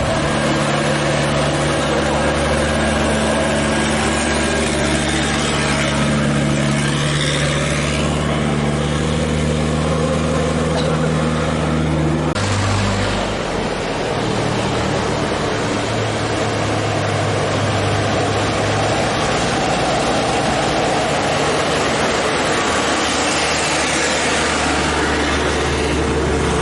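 Dump truck's diesel engine pulling hard up a steep climb at full throttle, a steady drone that changes abruptly about halfway through into a rougher, noisier sound.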